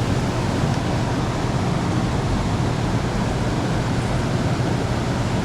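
Steady, deep rushing noise that does not change.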